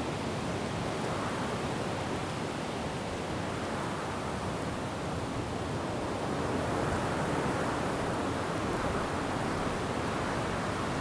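Wind rushing through forest trees, a steady hiss of foliage that swells and eases in gusts, growing a little louder about seven seconds in.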